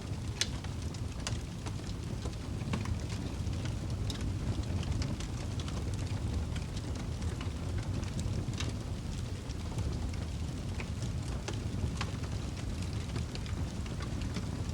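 Fire burning in a fireplace: a steady low rumble of flames with sharp crackles and pops at irregular intervals.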